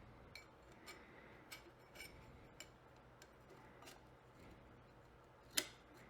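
Faint light metallic clicks about every half second, with one sharper click near the end, as a fork seal retaining clip is worked into its groove on a motorcycle fork.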